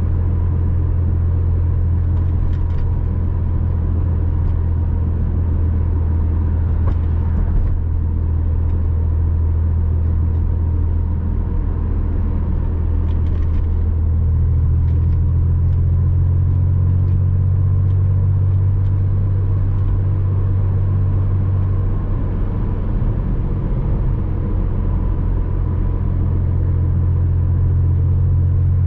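Porsche Boxster 986's flat-six engine running steadily under way, a low, even drone whose pitch shifts a little a couple of times.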